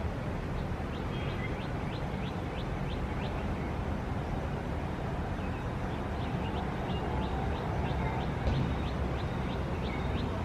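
Steady low rumble of city traffic, with a small bird giving runs of short, high chirps, about three a second, in two bouts.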